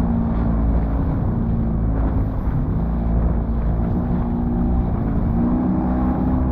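Outboard motor of a safety boat running steadily, its pitch shifting slightly, with wind buffeting the microphone.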